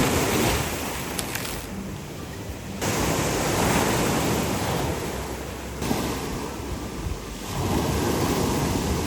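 Ocean surf washing on the shore with wind on the microphone, a steady rush of noise that changes abruptly a few times.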